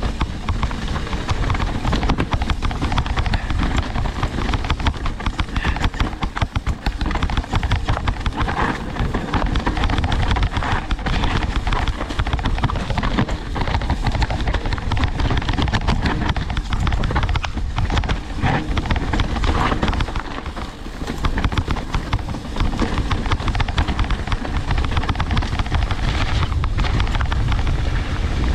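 Mountain bike riding down a dirt trail: tyres rumbling over the ground with dense rattling knocks from the bike, and wind buffeting the microphone.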